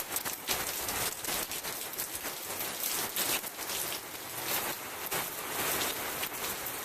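Hurricane rain falling steadily: a dense hiss with many sharp drop hits.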